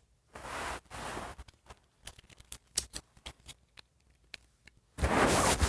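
Doll packaging being handled and opened by hand: two short rustles, then a run of small scattered clicks, and a louder rustle near the end.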